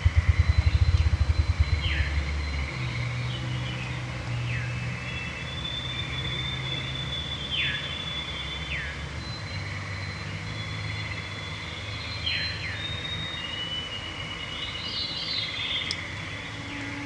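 Evening chorus: veeries sing repeated short downward-spiralling phrases over a steady frog trill, with thin held whistles from other songbirds. At the start, a low thumping speeds up into a whir and stops about two seconds in.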